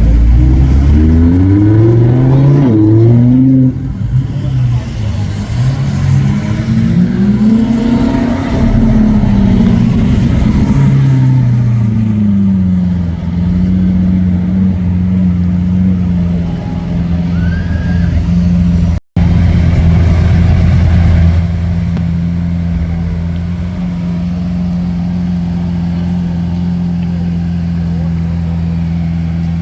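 Lamborghini Aventador V12 engine revving: its pitch climbs in quick steps at the start, rises and falls again in one long rev, then settles into a steady low idle. The sound drops out for an instant about two-thirds of the way through.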